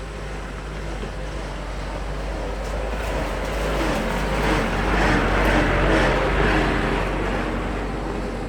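A motor vehicle passing by, growing louder to a peak about six seconds in and then fading away.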